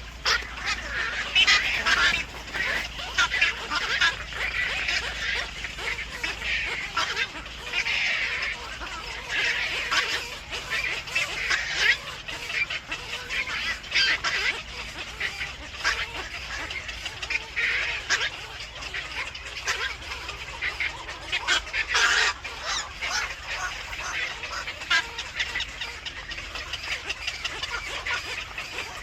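Birds calling: a dense, irregular run of short calls, several a second, that keeps up without a break.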